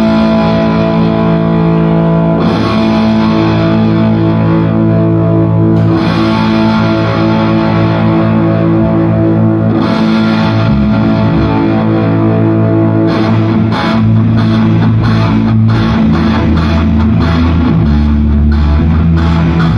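Loud rock music on distorted electric guitar, sustained chords ringing out; about two-thirds of the way through, a fast rhythm of sharp hits comes in under it.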